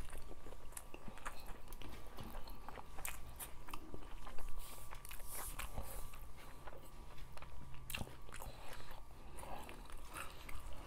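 Close-miked chewing and mouth sounds of people eating rice mixed with fish soup by hand, with many short, wet clicks.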